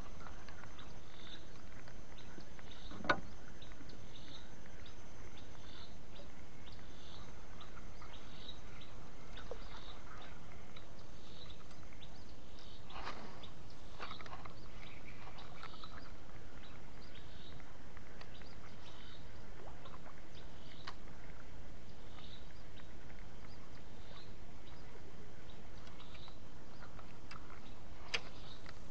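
A bird calling with short high chirps repeated a little more than once a second, over a steady background hiss. A few sharp knocks stand out, the loudest about three seconds in.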